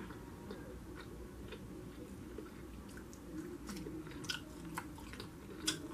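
A person chewing barbecued rib meat with the mouth closed: soft, scattered wet clicks, a few sharper ones near the end.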